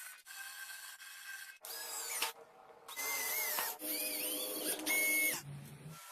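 A small power tool running in several short bursts that start and stop abruptly, its whine shifting in pitch as it works.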